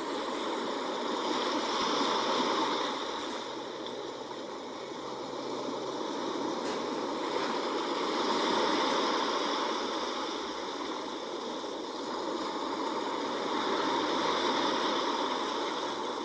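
Sea waves washing in and drawing back, a steady rushing hiss that swells three times, roughly every six seconds.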